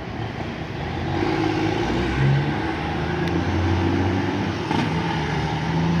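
Heavy loaded truck's diesel engine grows louder over the first second or so as it approaches, then runs steadily as it passes, with a low, even engine note over road noise.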